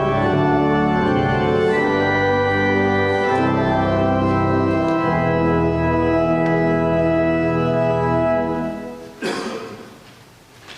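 Church organ playing sustained chords that end about eight or nine seconds in, the last chord dying away in the room. A brief noise comes just after the chord fades.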